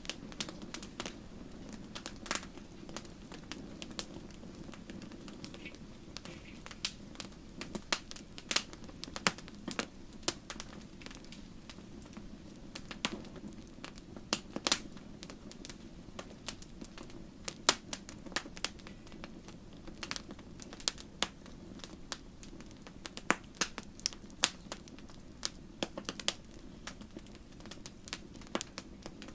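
Wood fire crackling, with irregular sharp pops and snaps over a steady low rumble of the flames; one loud pop comes a little past the middle.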